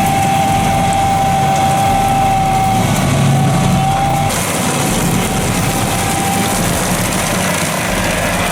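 Heavy machine's engine running steadily, with a high steady whine over it that fades out about four seconds in.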